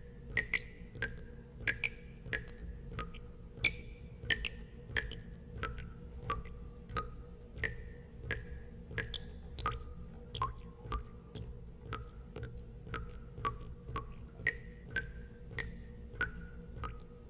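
Water drops falling one by one into water, each a short ringing plink at a different pitch, about two a second in an uneven rhythm, over a steady low rumble.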